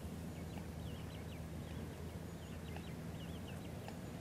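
Faint bird calls, short quick wavering high notes repeated again and again, over a steady low rumble of outdoor background noise.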